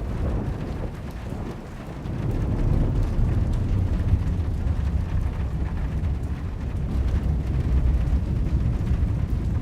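Thunderstorm: a long roll of thunder rumbling over a steady hiss of rain, easing briefly and then swelling again about two seconds in.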